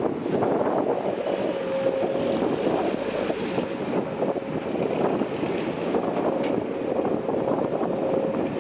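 Heavy diesel construction machinery running steadily, with a thin whine that fades in and out, and wind buffeting the microphone.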